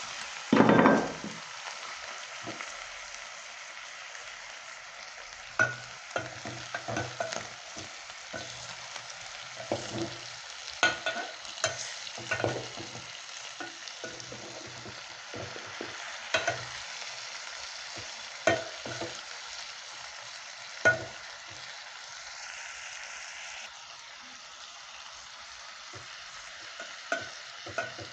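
Chicken and onions frying in a pot with a steady sizzle. A brief louder burst comes about half a second in, and a spoon knocks and scrapes against the pot at irregular intervals as the food is stirred.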